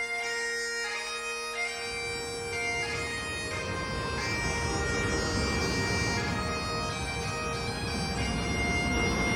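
Bagpipe music: a steady drone under a melody. From about two seconds in, a low rushing rumble joins it and keeps building, most likely the Loch Ness Monster coaster's train running on its track.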